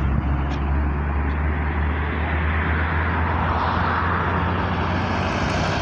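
A truck driving past. Its engine drone fades about halfway through as a hiss of tyre and road noise swells.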